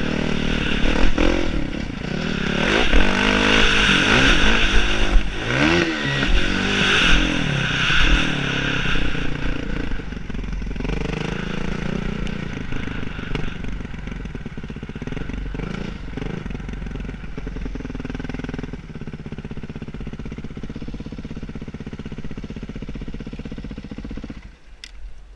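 Motocross bike engines revving and running, their pitch swinging up and down, loudest in the first half with a quick rev up and back down about six seconds in. The engines then settle into a quieter, steadier drone that drops away shortly before the end.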